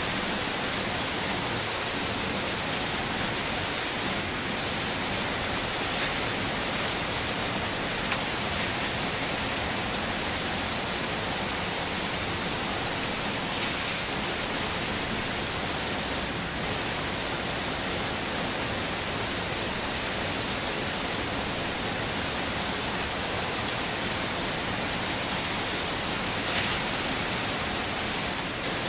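Heavy rain falling, a steady, even hiss that briefly dips three times, about twelve seconds apart.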